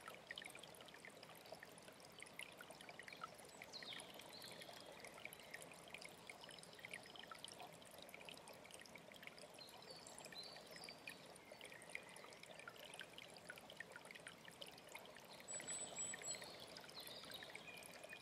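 Mountain stream trickling and splashing steadily, with a few faint high bird chirps now and then.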